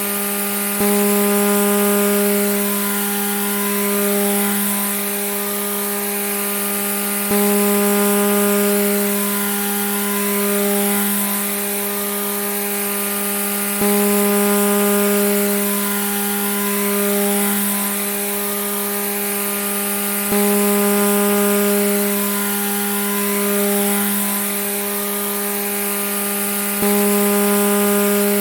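Grass trimmer (weed eater) running steadily at high speed, a constant buzzing hum. The same stretch repeats about every six and a half seconds, each repeat opening with a sudden jump in loudness.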